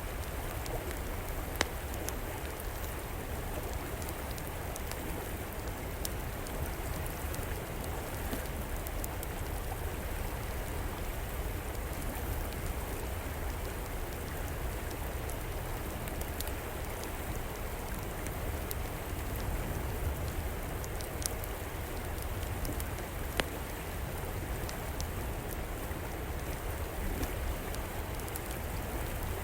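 River water flowing steadily, with a wood fire crackling over it in scattered small snaps and a couple of sharper pops.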